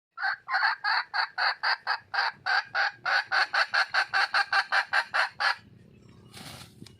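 Wild hen (female red junglefowl) calling: a fast, even run of short clucks, about five a second, that stops after about five and a half seconds, followed by a brief rustle-like noise near the end.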